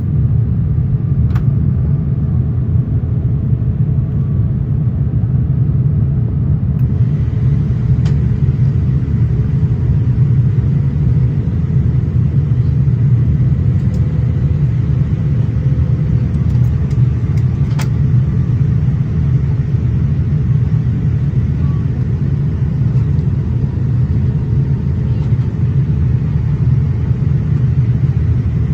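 Steady low rumble inside a Boeing 787-8 passenger cabin in flight: engine and airflow noise with a few faint clicks.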